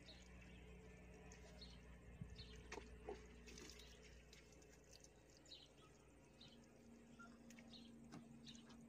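Near silence, with faint scattered bird chirps and a few light clicks.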